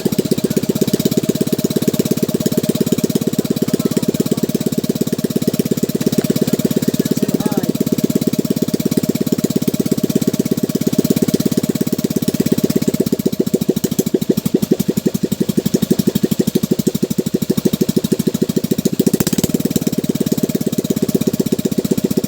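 Small gasoline boat engine running steadily with a rapid, even putter.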